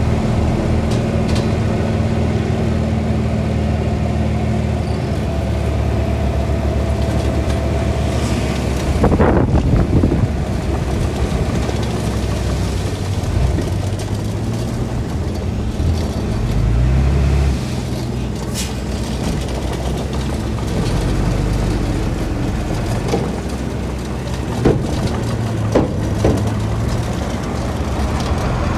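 Diesel engines of earthmoving machinery running steadily. About nine seconds in there is a loud, noisy surge, an engine rises in pitch around sixteen seconds in, and there are a few sharp knocks near the end.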